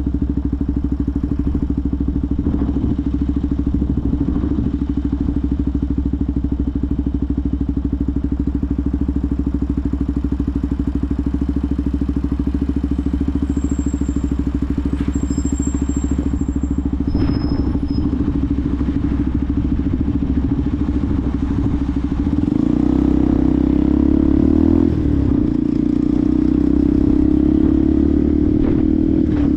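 Benelli TNT 125's single-cylinder 125cc engine running at a steady pace, then picking up revs about 22 seconds in and holding louder after that.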